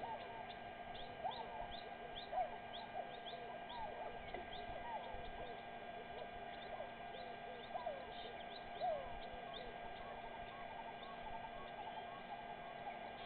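Wild birds calling, a chorus of many short overlapping chirps and whistled notes, some sliding up or down in pitch, over a faint steady hum.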